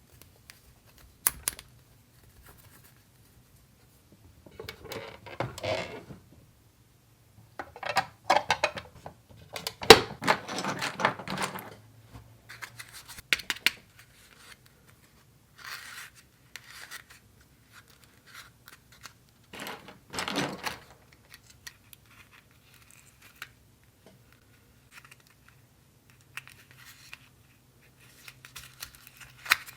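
Small plastic toy kitchen pieces being handled and set down: scattered light clicks and taps, with a few longer stretches of scraping and rustling.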